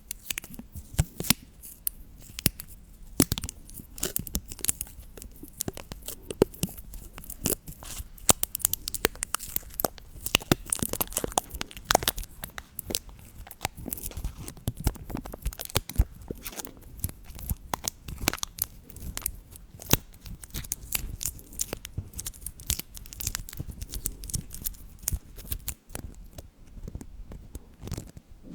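Dense, irregular crackling and tearing noises, a steady stream of small sharp clicks that fades a little near the end.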